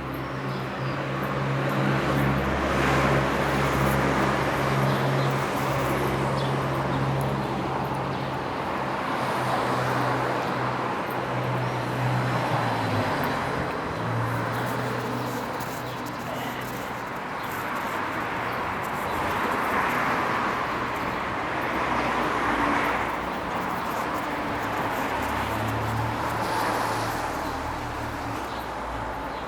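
City street traffic: car engines running and cars passing, with a steady low engine hum nearby and the rush of passing vehicles swelling and fading.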